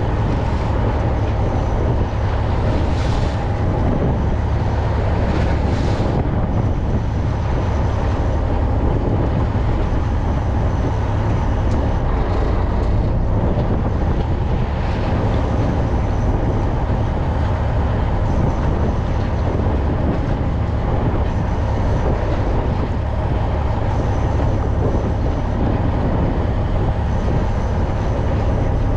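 Fishing boat's engine running steadily under way, a constant low rumble with wash noise over it.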